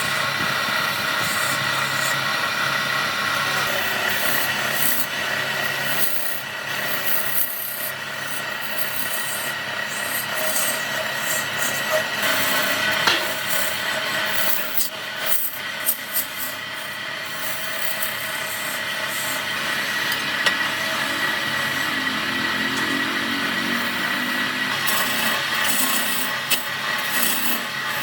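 A power tool working wood: a steady high whine over a rasping, abrasive noise, with a few sharp knocks along the way.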